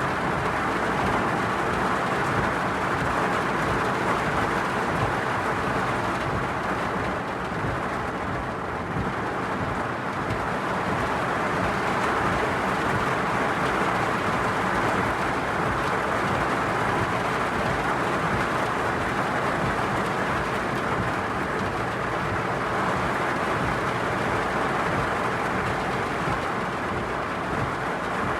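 Freight train hauled by an EH500 electric locomotive passing at speed with its container wagons, a steady rumble of wheels on rail that drops away suddenly near the end, leaving the hiss of heavy rain.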